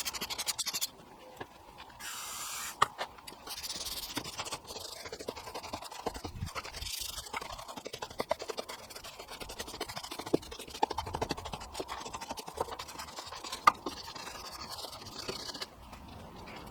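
Detail brush scrubbing grimy engine-bay parts, bristles scratching in quick irregular strokes, with a couple of sharper clicks.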